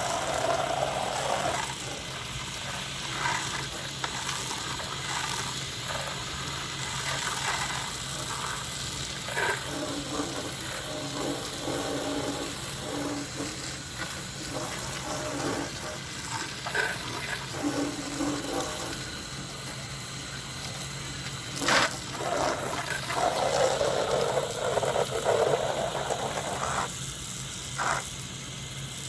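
Pressure washer spraying water on the outside of a house: a steady hiss of spray over a low steady hum, changing in tone as the jet moves across surfaces, with a single sharp click about 22 seconds in.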